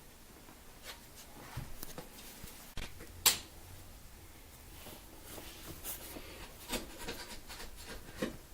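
Quiet room with faint scattered taps and rustles of handling, and one sharper click about three seconds in.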